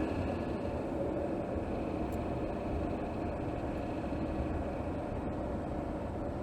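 Mercedes-Benz 3.0-litre turbocharged inline-six engine with EQ Boost mild hybrid, idling steadily shortly after start-up, heard from under the bonnet.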